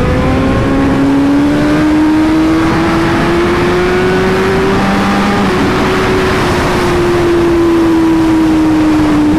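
Motorcycle engine running under way, its note climbing slowly for about five seconds and then easing gradually lower, with wind rushing past.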